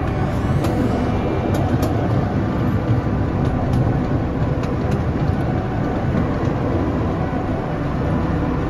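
Small park train running along its track, heard from aboard a passenger car: a steady low rumble of wheels on rails, with a few faint light clicks in the first few seconds.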